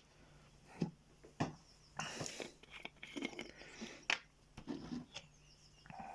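Small scratchy rubbing and irregular clicks of a cotton bud soaked in alcohol being worked round a model railway wagon wheel to clean off dirt, over a faint steady hum.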